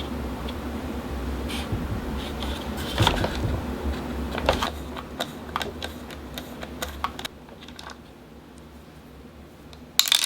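Plastic fan parts and small metal pieces clicking and clattering as they are handled during disassembly, with a steady low hum under the first part and a louder clatter near the end.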